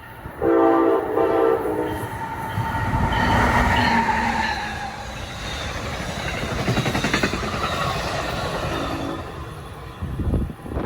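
Train horn sounding two short blasts, followed by a train passing at speed with steady wheel and rail noise that swells and fades. A brief horn note sounds again near the end.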